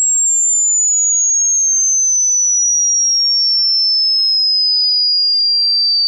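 A single high-pitched pure electronic sine tone, sweeping slowly and smoothly downward in pitch, from a piercing whistle-like height to a somewhat lower one, at a steady level.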